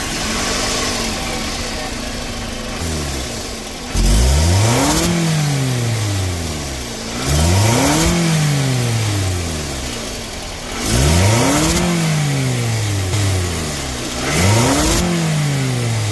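Scion xB's 2.4-litre four-cylinder engine idling, then blipped four times, pitch rising and falling each time. A loud hiss swells with every rev: an exhaust leak at the flange gasket between the manifold and the exhaust pipe, which also costs the car power.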